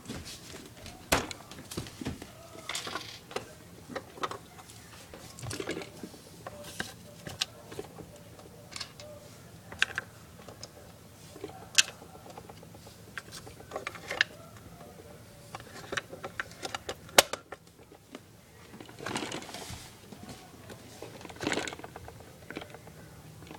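Small plastic toy pieces being handled and set down: irregular clicks, taps and knocks, with a couple of short rustling bursts near the end.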